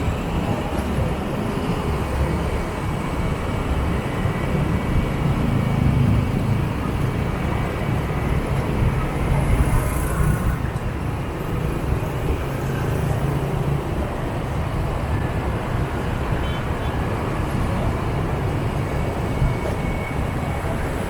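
Steady motorbike traffic noise heard while riding a scooter: the engine and tyres of the bike being ridden, with surrounding motorbikes in a continuous low rumble.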